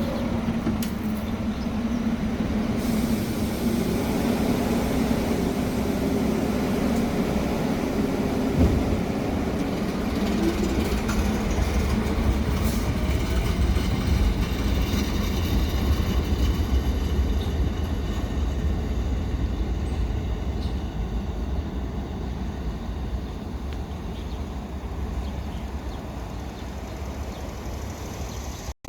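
Staten Island Railway electric train pulling out of the station, its wheels and motors making a steady rumble with a rising whine during the first several seconds. The sound eases off over the last few seconds.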